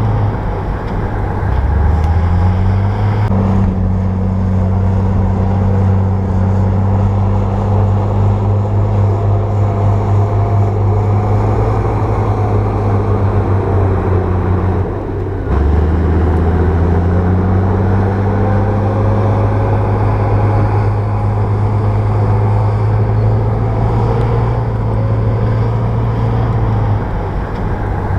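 Komatsu bulldozer's diesel engine running steadily under work. Its note sags lower and climbs back about a second in, again near the middle, and once more near the end.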